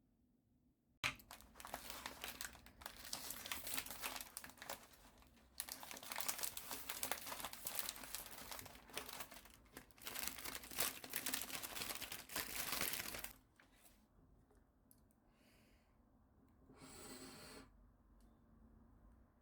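Packaging crinkling and tearing in several stretches of handling, as a gift is unwrapped; it stops a little over halfway through, leaving only a brief rustle later.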